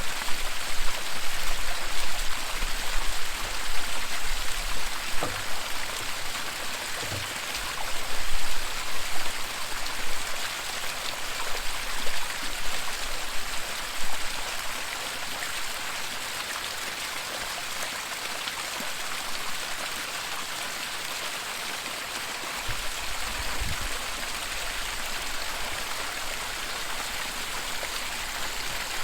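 Steady rushing of falling and flowing water, a waterfall splashing into a stream, with a few soft low thumps.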